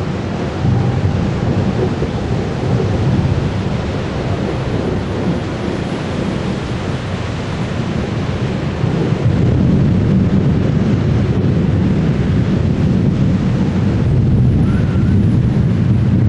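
Thunder rumbling in long low rolls during a thunderstorm, swelling louder about nine seconds in and again near the end.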